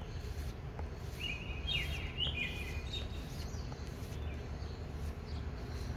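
Songbirds chirping, with a quick run of short chirps and downward-sliding notes between about one and three seconds in, over a steady low background rumble.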